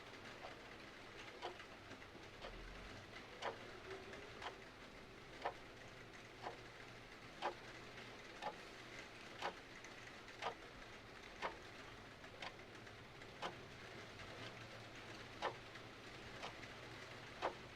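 Mechanical clock ticking about once a second, the ticks alternating slightly in strength, over a steady soft hiss of rain.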